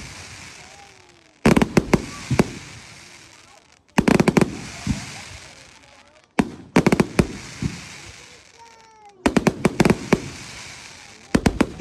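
Fireworks going off: clusters of several sharp bangs about every two and a half seconds, each followed by a fading crackle.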